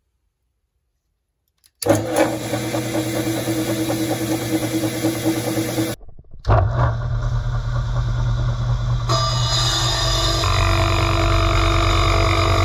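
A motor starting up and running steadily, heard in short clips that cut off abruptly and change about halfway through.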